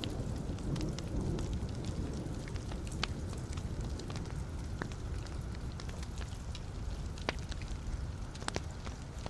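Wood fire burning in a fireplace: a steady low rush of flames with scattered sharp crackles and pops from the logs, several seconds apart.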